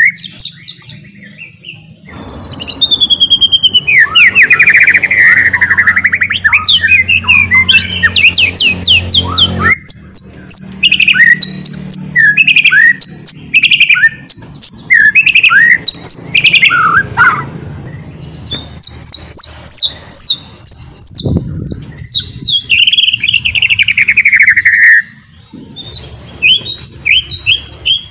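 White-rumped shama singing a loud, varied song of rapid twittering trills, falling whistled sweeps and short chattering notes, the fast 'ngeriwik' style, with brief pauses near the start and near the end.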